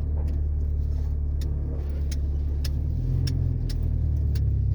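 Ford Ranger pickup's engine running under way, a steady low drone that changes pitch about three seconds in. Sharp ticks come through it every half second or so.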